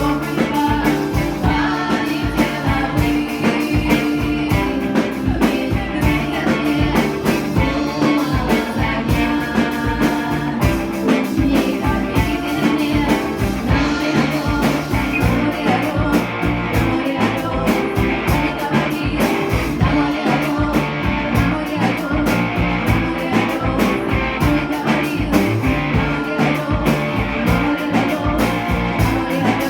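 Folk-rock band playing live, with a drum kit keeping a steady beat under the instruments.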